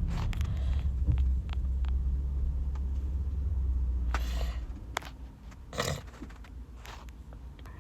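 Handling and movement noise while a book is fetched: a low rumble that stops about halfway through, scattered knocks and clicks, and two brief rustles.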